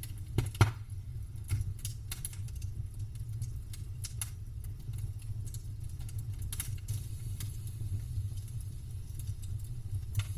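Campfire crackling: irregular sharp pops and snaps of burning wood, the loudest about half a second in, over a steady low rumble.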